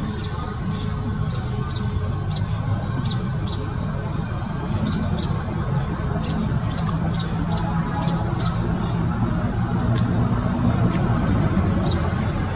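Car engine running steadily with a low rumble, with short high chirps repeating irregularly over it and a faint high tone coming in near the end.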